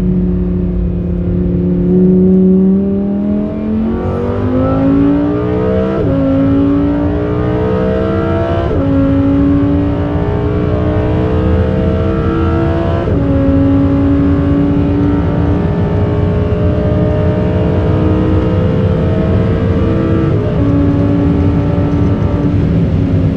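Lamborghini Huracán Performante's naturally aspirated V10 on its stock exhaust, accelerating hard through the gears: the engine note climbs, then drops at each of four quick upshifts, and every gear climbs more slowly than the one before.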